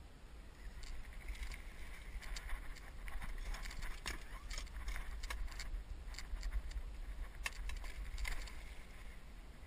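Water splashing as a hooked bass thrashes at the surface beside a boat. Scattered sharp clicks and knocks come with it, densest about halfway through and again near the end, over a low steady rumble.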